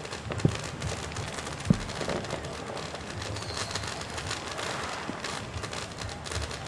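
Fireworks: two sharp booms of shells bursting within the first two seconds, with crackling and fizzing throughout.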